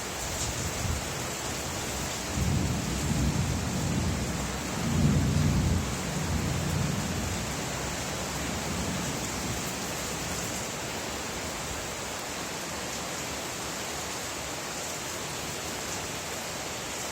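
Steady rain falling, with a low roll of thunder that swells about two seconds in, is loudest around five seconds and fades out a couple of seconds later.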